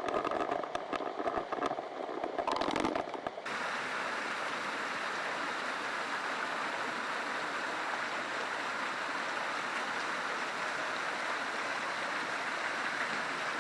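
Steady rushing water, as from the hot spring waterfalls and river. It comes in abruptly about three and a half seconds in, after a short stretch of quieter, uneven sound.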